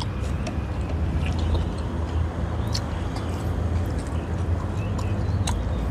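Close-miked eating sounds: chewing with scattered wet mouth clicks and smacks, over a steady low rumble.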